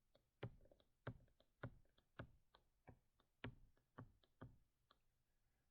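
Faint, short clicks of a computer drawing input, about eight at roughly two a second, as strokes are laid down in a digital drawing program.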